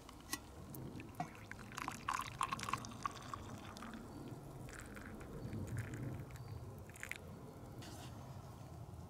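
Water pouring and trickling, with a string of sharp light clicks in the first few seconds.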